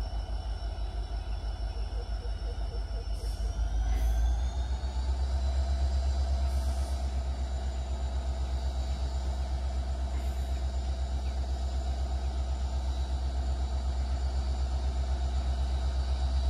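Locomotive of a distant RORO freight train pulling away: a steady low rumble with a high whine that rises in pitch about four seconds in as it powers up, then holds steady.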